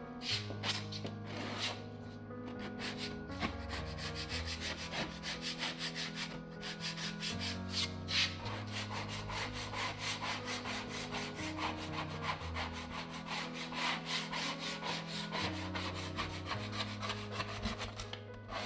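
Rapid, repeated scraping strokes of a putty-knife blade across a rusted steel fridge door, lifting the blistered, flaking paint. Background music with low held bass notes plays under it.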